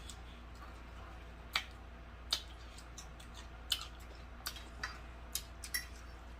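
Wet mouth smacks and clicks of chewing tender pork neckbone meat, a scattering of short sharp clicks at irregular intervals over a faint steady hum.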